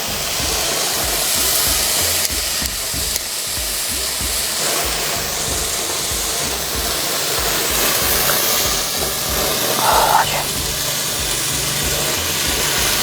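A lit sparkler lying on vinegar-sprayed paper, burning with a steady fizzing hiss, over background music with a low, even beat.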